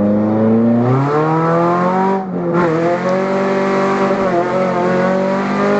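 Supercharged 2.0-litre four-cylinder of a Chevrolet Cobalt SS accelerating hard with essentially no exhaust, the gases escaping at a blown downpipe flange, so it sounds loud and raw. The engine note climbs steadily, drops about two seconds in, then climbs again.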